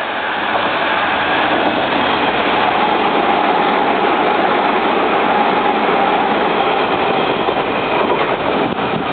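Kintetsu electric train running on the track, a steady loud rumble with a faint whine in the middle. It builds over the first couple of seconds and eases a little near the end.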